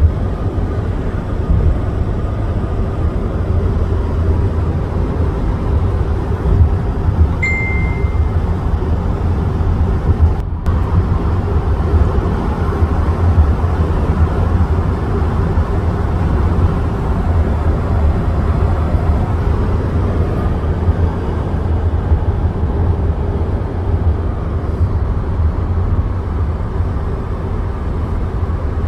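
Steady road noise inside a moving car: a low engine and tyre drone, with one short high beep about seven seconds in.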